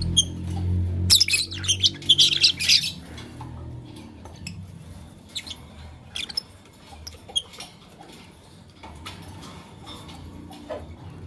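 Lovebirds chirping and squawking: a dense burst of shrill calls about a second in, then scattered single chirps.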